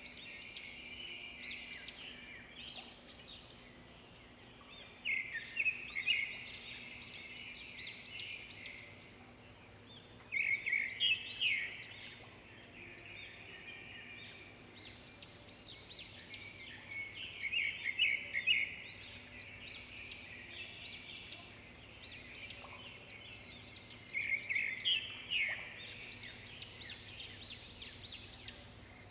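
A songbird singing repeated phrases of quick, high notes, a new phrase roughly every six seconds, over a faint steady low hum.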